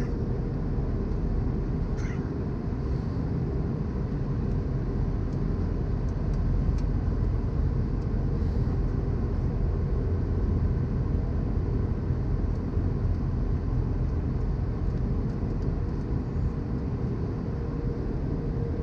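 Airliner cabin noise inside an Airbus A320-214 descending: a steady low rumble of airflow and its CFM56 engines, with a faint constant hum.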